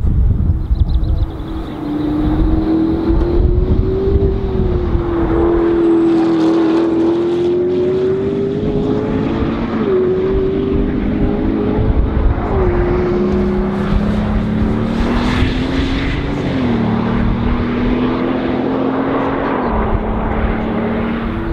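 Supercar engine running hard on a racing circuit, heard from trackside at a distance: a steady drone whose pitch climbs slowly and then drops sharply about five times as it shifts up through the gears.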